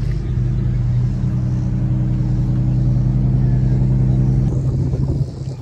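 Car engine running at a steady idle, a low even hum that dies away about five seconds in.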